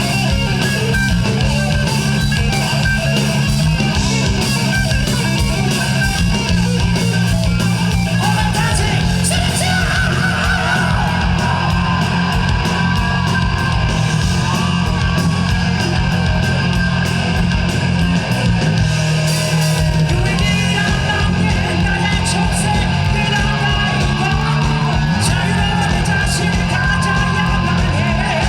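Live heavy rock band playing loudly: distorted electric guitar, bass and a steady drum beat, with a singing voice over it.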